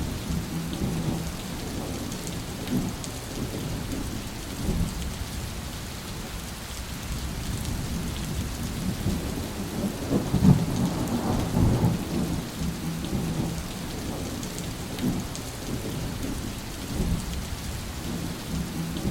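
Steady rain falling with rolling thunder. A louder peal of thunder rumbles about halfway through.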